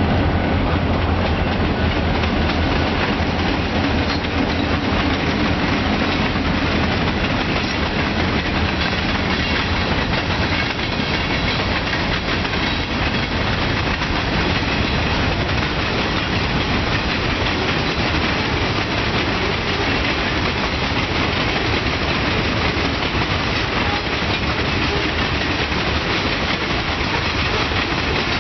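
Freight train passing close by. A diesel locomotive's low engine hum fades out over the first several seconds, then the steady rumble and clickety-clack of loaded hopper cars rolling over the rail joints.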